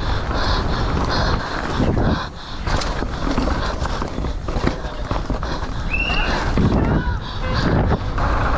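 Wind rushing over the microphone with the constant rattle and knocks of a downhill mountain bike hammering down a rough, muddy track, with a brief high call about six seconds in.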